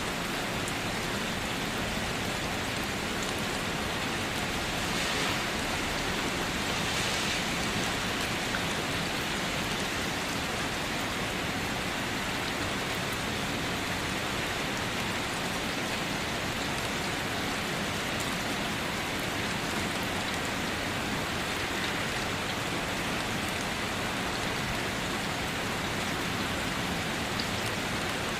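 Steady rain falling on a car, an even hiss with scattered drops tapping.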